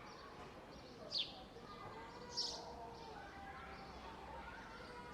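Park ambience: a bird gives two sharp high calls about a second apart, the first a quick downward sweep. Behind them are faint distant voices and a low background hum.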